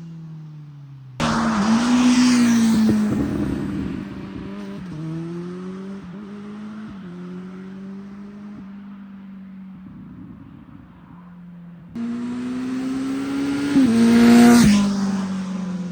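Kawasaki Z900 inline-four with an SC-Project S1-GP slip-on exhaust riding past, pulling up through the gears with steps in pitch between shifts. The sound jumps up suddenly twice, and near the end it peaks loudest as the bike goes by, then falls in pitch.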